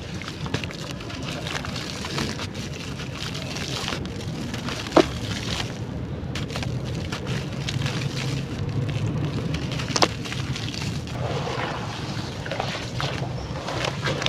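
Crunchy charcoal crumbling and crackling in water: a dense, continuous fine crackle with a few sharper clicks about five and ten seconds in.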